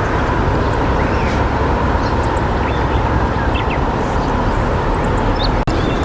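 River water rushing steadily, with faint short high chirps of small birds scattered over it.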